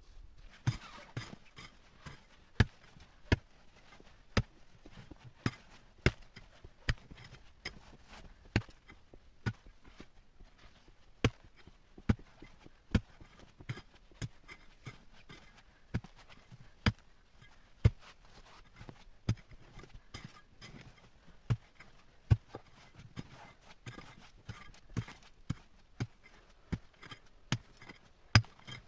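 A long series of sharp knocks, roughly one a second at an uneven pace, some much louder than others, like repeated chopping or striking blows.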